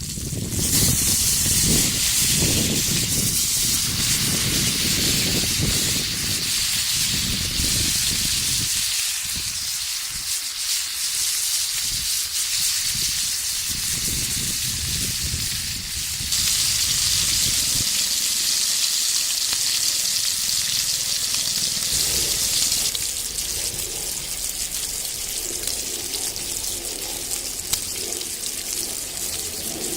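Pork sizzling in a skillet over a wood fire: a steady frying hiss, with a heavier low rumble through the first half.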